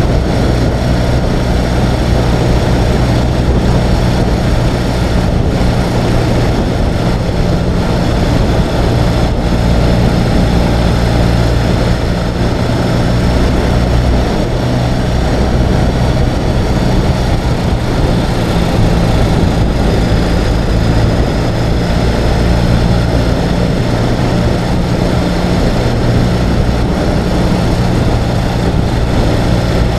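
Ural sidecar motorcycle's air-cooled flat-twin engine running steadily under way, at an even pace with no shifts or revving.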